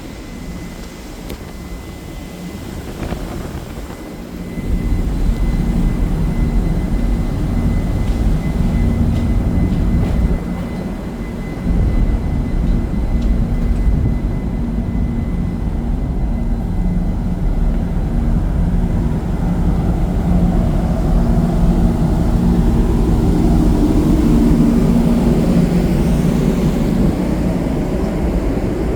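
Steady low drone of a car ferry's engines at sea, with a deep rumble that swells up about four seconds in and again about twelve seconds in.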